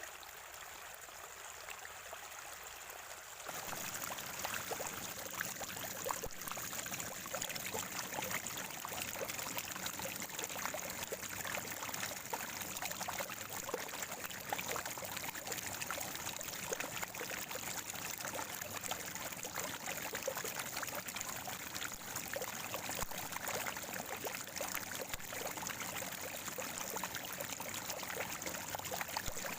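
Natural spring water flowing and gurgling, a steady splashing trickle with many small drips, suddenly louder and fuller about three and a half seconds in.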